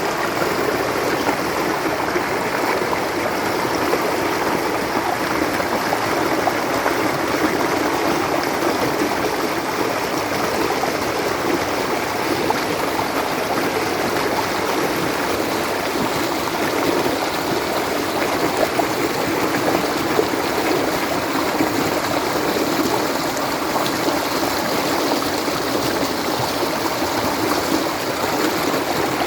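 Water of a stream flowing steadily, an even, unbroken rushing with no pauses or changes.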